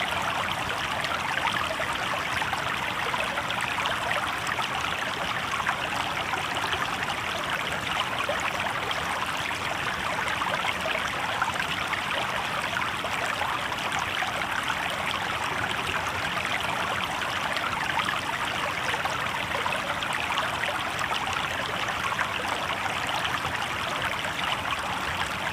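Shallow river water babbling over stones, a steady, even rushing without a break.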